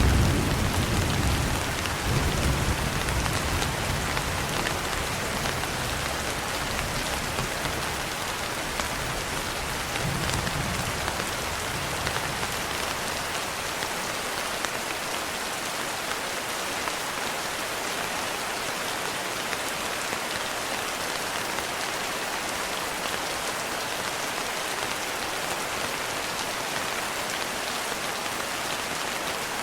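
Steady rain, with a low roll of thunder dying away over the first few seconds and a fainter rumble about ten seconds in.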